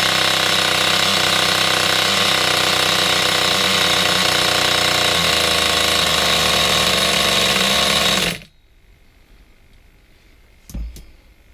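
Nitro engine in a Hobao Hyper 7 RC buggy running at a steady speed, then stopping abruptly about eight seconds in; a single short knock follows near the end.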